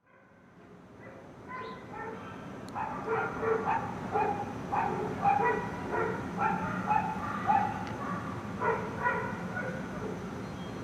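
Dogs barking and yipping in a steady run of short, high-pitched barks, a bit more than one a second, over a steady low hum; the sound fades in over the first two seconds.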